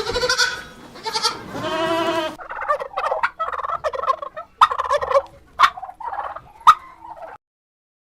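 A farm animal bleating with wavering calls, then a sudden change to poultry calling: about five short, rapid rattling calls in a row, cutting off abruptly near the end.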